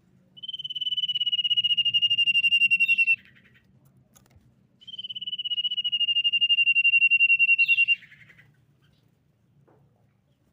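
Common iora giving two long whistled notes, each about three seconds, held near one pitch and sinking slightly, with a fast flutter through it and a short flick up and down at the end.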